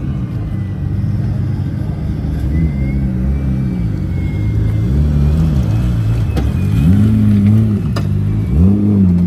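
A car engine being revved in short blips, about four times, each rise in pitch falling back to idle, with a couple of sharp clicks between the later revs.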